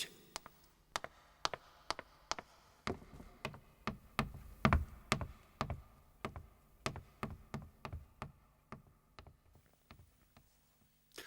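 Footsteps on a hard floor, about two a second, walking away and growing fainter toward the end.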